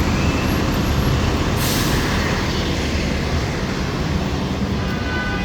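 Busy street traffic with city buses, a steady low engine rumble, and a short burst of air-brake hiss about a second and a half in.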